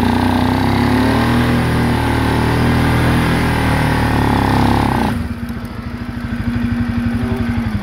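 Quad (ATV) engine working hard under throttle while driving through crusted snow, its pitch wavering, then easing off to a lower, quieter steady run about five seconds in.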